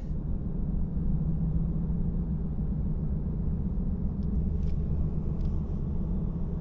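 Steady low road rumble and engine hum heard inside a moving vehicle, with a few faint clicks about four to five seconds in.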